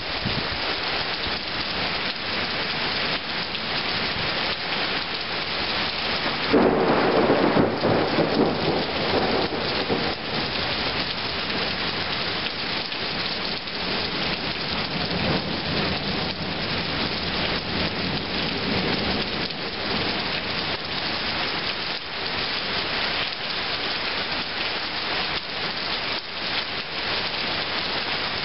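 Heavy rain pouring steadily in a thunderstorm. About six and a half seconds in, a loud clap of thunder rumbles for a few seconds, and a fainter rumble of thunder follows around the middle.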